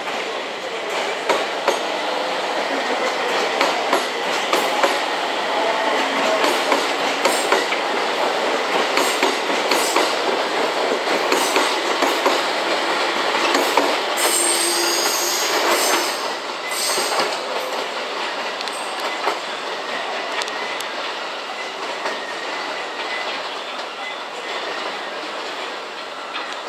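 JR East 701 series electric train rolling close by over points and rail joints, its wheels clattering steadily with many sharp clicks. A brief high-pitched wheel squeal comes about halfway through.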